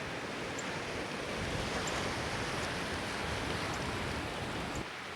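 Ocean surf washing steadily onto the beach, a continuous rush of water. A low wind rumble on the microphone runs underneath and drops away abruptly near the end.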